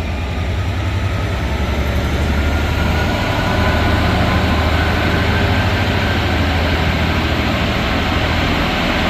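Class 66 diesel-electric locomotive with its two-stroke V12 engine running as it hauls an intermodal container freight train, a steady low engine drone under the rumble of the wagons. It grows slightly louder about three seconds in.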